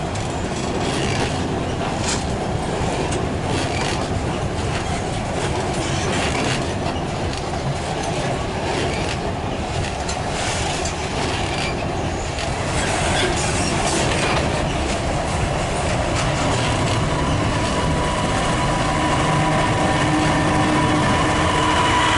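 A freight train rolling past, its wheels clicking over the rail joints over a steady rumble. A steady squeal comes in near the end.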